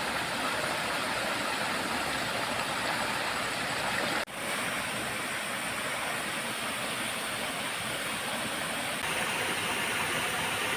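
Waterfall rushing steadily, with a momentary dropout about four seconds in.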